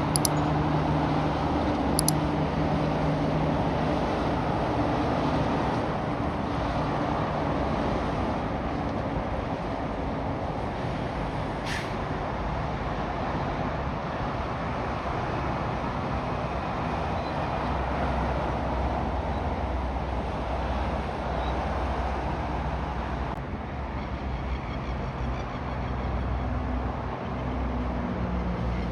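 Heavy road traffic with semi-trailer trucks passing: steady tyre and road noise, with a diesel engine's drone fading out over the first few seconds and another truck engine coming in near the end. A single sharp click comes about halfway through.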